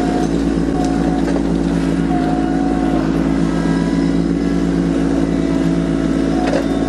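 Kubota LX2610 compact tractor's three-cylinder diesel engine running steadily at working speed. Short, higher-pitched whines come and go over it a few times.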